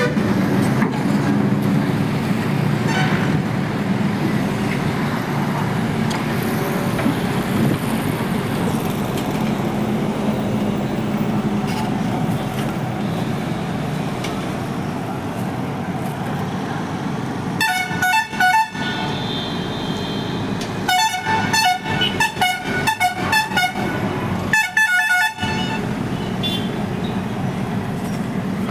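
Heavy machinery engine running steadily, with three bursts of short, rapid horn toots in the last third.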